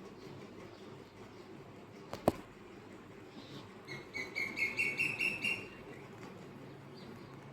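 A bird calling in a quick run of repeated chirping notes for about a second and a half, past the middle. A single sharp click comes a little earlier, over a steady low background noise.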